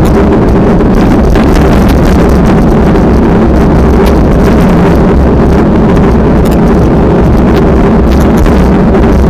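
Strong wind buffeting the microphone: a loud, steady, rumbling roar that never lets up.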